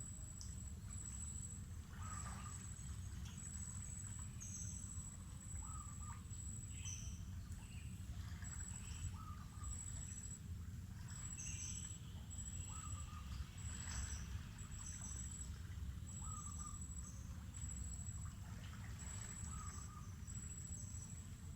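Mangrove forest ambience: an insect keeps up a high, evenly pulsed trill, a bit more than one pulse a second. Over it, a short call repeats every second or two, with scattered higher bird chirps. A steady low rumble runs underneath.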